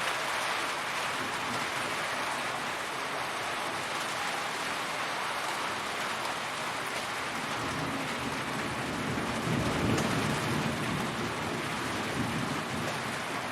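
Steady heavy rain falling as a constant hiss. About ten seconds in, a low rumble swells briefly.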